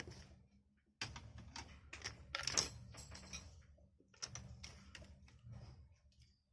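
Typing on a laptop keyboard, with irregular runs of key clicks and short pauses between them.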